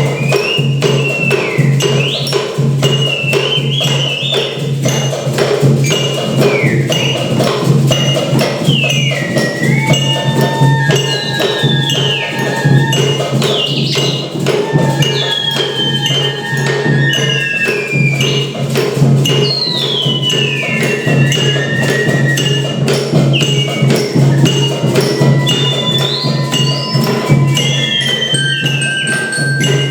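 Children's percussion ensemble playing tetabuhan: a busy, steady beat of many struck instruments with tambourine jingles, wood-block knocks and bell tones. Over it, high tones slide downward again and again, with a few held notes, above a steady low hum.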